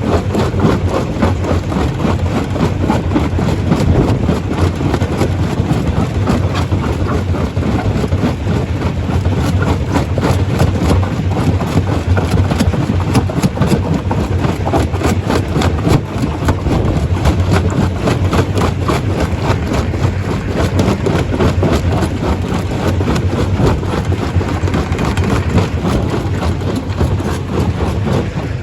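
Stone crusher running under load: a steady low machinery hum beneath a dense, continuous clatter of rock being broken and knocked about.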